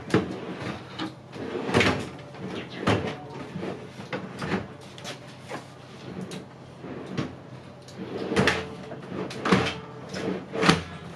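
Melamine cabinet drawers being worked on their metal drawer slides, with a dozen or so irregular knocks and clunks as panels slide and bump home.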